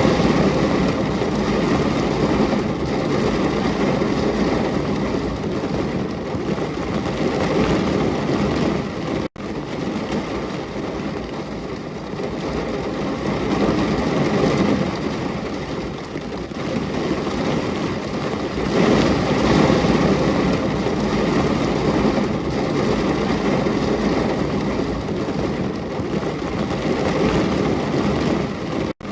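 Steady heavy rain: a dense, even hiss that swells and eases slowly. It cuts out for an instant about nine seconds in and again at the end.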